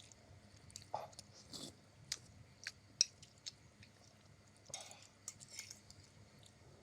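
A person chewing egg noodles close to the microphone: irregular wet smacks and sharp mouth clicks, the loudest about three seconds in.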